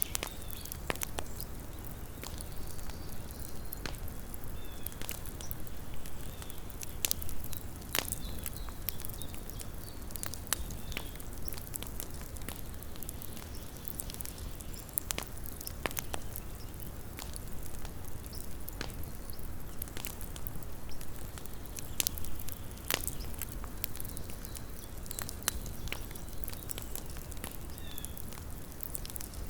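Small wood campfire crackling: irregular sharp pops and snaps scattered throughout, over a low steady rumble.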